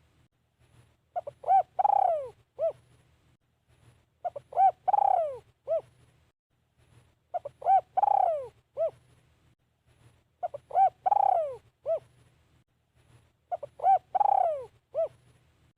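Spotted dove singing its cooing song: each phrase is a few short coos, one longer coo that falls in pitch, and a short closing coo. The phrase repeats about every three seconds, five times.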